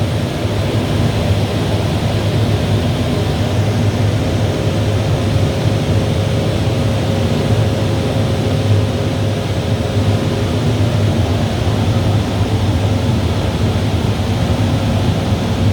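Bosch steam boiler plant running steadily in its boiler room: a loud, even machine noise with a low hum and a faint steady tone.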